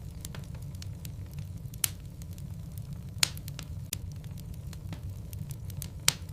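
Wood fire burning in a fireplace: a steady low rumble with scattered sharp crackles and pops, the loudest about 2, 3 and 6 seconds in.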